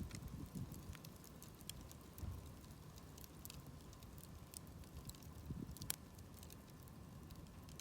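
Wood campfire crackling softly, with scattered small pops and one sharper pop about six seconds in.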